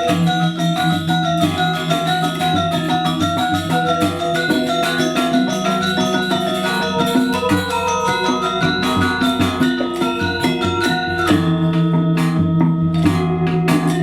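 Balinese gamelan playing Legong dance music: bright interlocking metallophone notes over a steady low tone. About eleven seconds in, sharp crisp strikes come to the fore.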